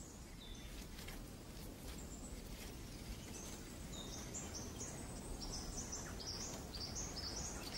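Outdoor ambience of small birds chirping in short, high notes, busier from about three seconds in, over a faint steady background hiss.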